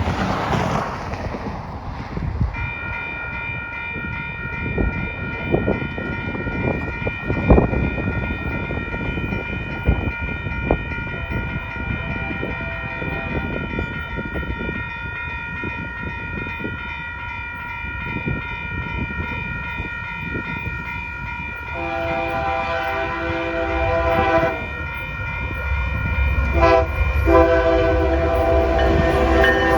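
Freight train passing, its locomotive horn sounding a long, steady multi-note blast over the rumble and clatter of the train. About two-thirds of the way through, a lower-pitched horn chord sounds twice, as the rumble grows louder near the end.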